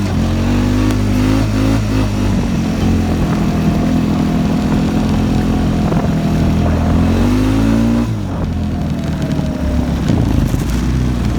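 Honda Foreman 500 ATV engine running under load, revving up a little past halfway through and then easing off.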